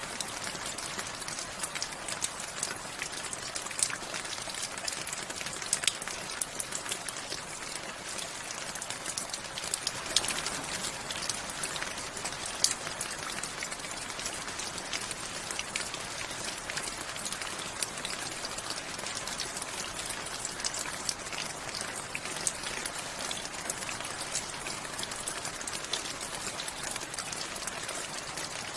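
Steady rain falling, a constant hiss with many sharp individual drops ticking on a surface close by.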